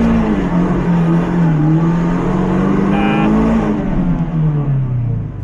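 Mazda MX-5's four-cylinder engine revving hard and held high under load, its pitch falling away about four seconds in.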